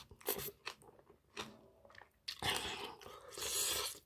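Close-miked chewing of spicy stir-fried baby octopus with rice: a few short, scattered wet mouth clicks, then a louder, longer stretch of chewing from a little past halfway.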